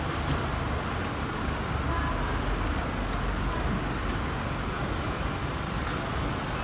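Steady rumbling vehicle noise, even and unbroken, heaviest in the low range.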